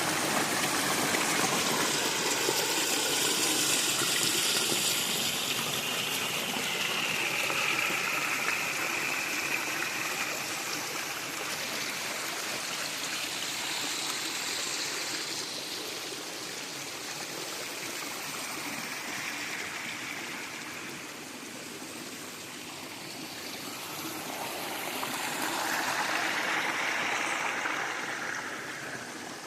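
River water running and gurgling over rocks, a steady rush that swells and eases slowly.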